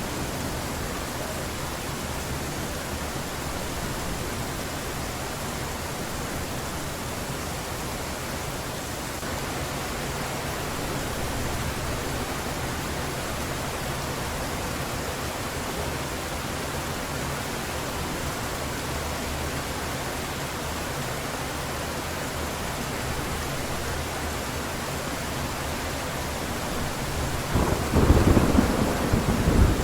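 Steady heavy rain with a low rumble of thunder underneath, then a loud thunderclap near the end.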